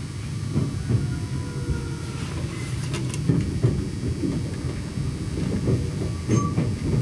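Nagano Electric Railway limited express train heard from inside the carriage: a steady low rumble with irregular knocks, and brief faint squealing tones.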